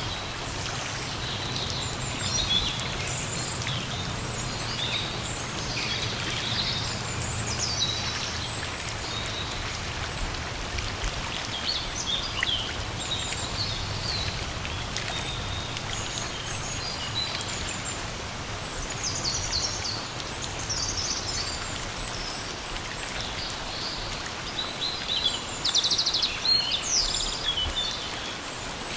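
Steady rain falling in a forest, with songbirds chirping on and off throughout and a louder run of chirps near the end.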